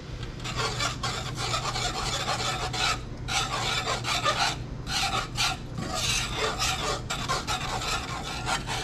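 A whisk scraping around a pan as milk is worked into a flour-and-grease roux for gravy: repeated rasping strokes, several a second, with short pauses.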